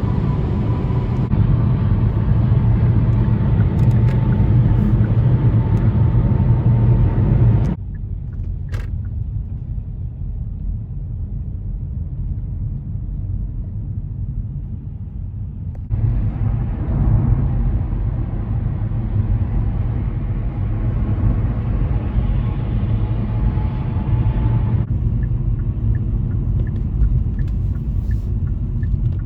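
Steady low rumble of road and engine noise inside a moving car. The higher part of the noise cuts out abruptly about a quarter of the way through, leaving a duller rumble, and comes back just past halfway.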